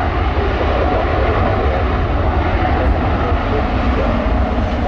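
Jet airliner engines close by, a loud, steady rush of noise heavy in the low end.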